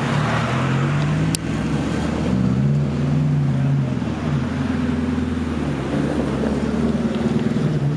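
A car engine running loud, its pitch rising and falling a couple of times as it revs, with a single sharp click about a second in.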